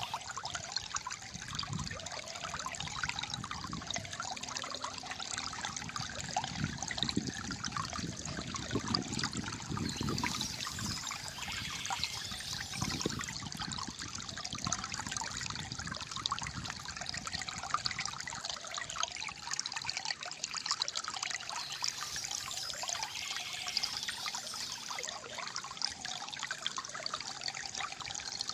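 Calm stream of flowing water trickling and gurgling steadily, with deeper gurgles in the first half.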